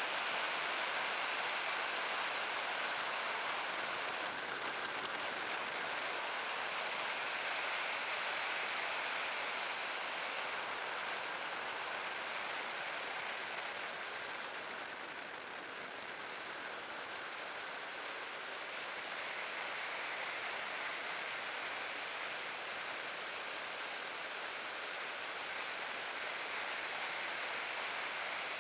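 Steady rushing hiss of air and tyres from a moving electric trike, with no motor whine standing out; it eases slightly around the middle.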